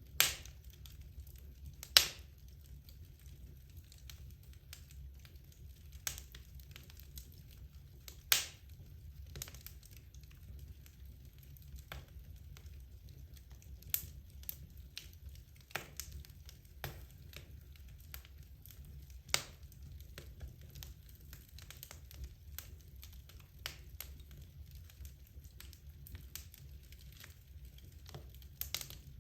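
Logs burning in a fireplace, crackling with irregular sharp pops. The loudest pops come just after the start, about two seconds in and about eight seconds in, over a low steady rumble.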